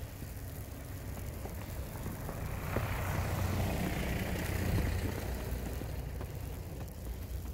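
A motor vehicle passing by: a low engine rumble and tyre hiss swell to a peak about halfway through, then fade away.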